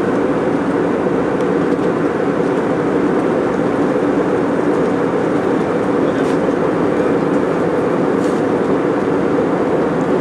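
Steady cabin noise of an airliner in flight: the even rush of jet engines and airflow, unchanging throughout, with a couple of faint ticks near the end.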